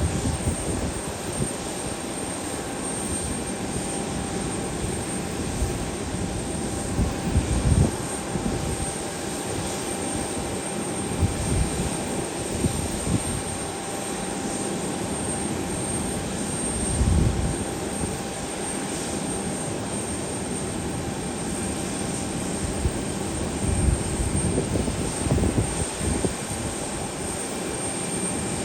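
Airliner engines running steadily, with a thin high whine over a constant rush. Gusts of wind buffet the microphone every few seconds.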